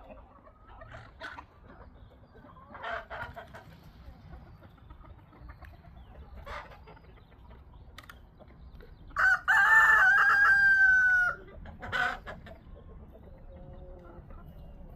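Domestic hens clucking in short scattered calls, with a rooster crowing once loudly about two-thirds of the way in: a short first note, then a long held note that dips in pitch at the end.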